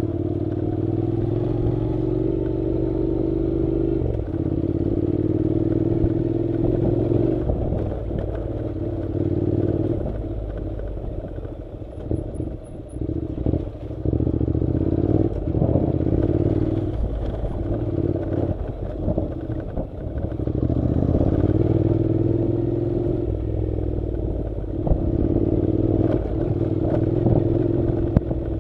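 Honda NC700's parallel-twin engine running on a rough dirt track, steady at first, then easing off and picking up again several times in the middle, with rattles and knocks from the bumpy ground, before settling back to a steady pull.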